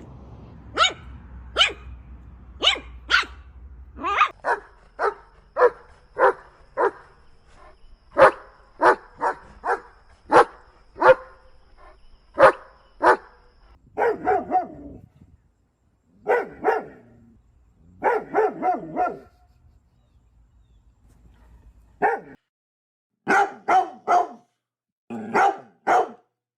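Recorded dogs barking: a long run of single sharp barks, about one to two a second, then bursts of quicker barking, a brief pause, and more barks near the end, spliced from separate recordings.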